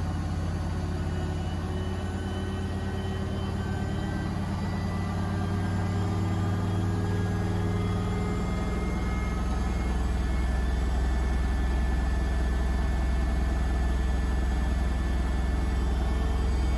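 Beko WTK104121A washing machine spinning, with a steady hum and motor whine whose tones shift in pitch about halfway through and grow slowly louder. This is typical of the drum working up speed in the final spin, which is rated at 1400 rpm.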